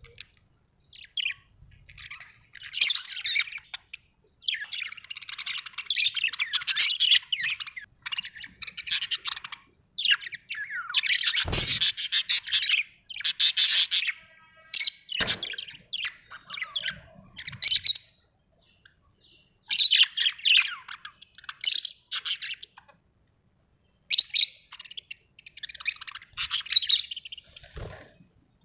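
Birds chirping in repeated bouts of rapid, high-pitched chatter, with short pauses between the bouts.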